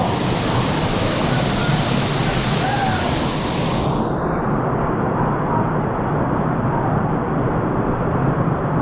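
Steady rushing of water pouring over the Damajagua waterfalls. Its hiss thins about four seconds in, leaving a duller roar.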